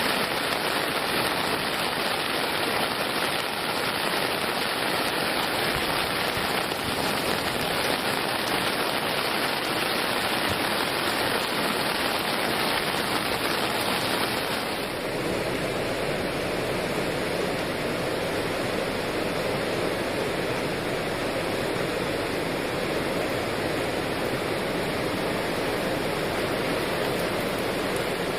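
Rushing floodwater of the Tonda River swollen by Typhoon No. 12, a steady, dense rushing noise; about halfway through it changes tone, as from a different spot on the river.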